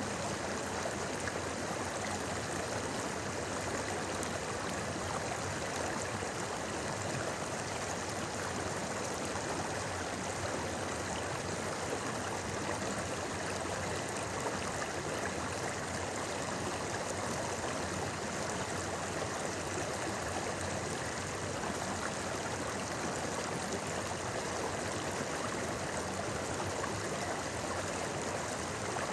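A river babbling: a steady, even rush of flowing water with no breaks.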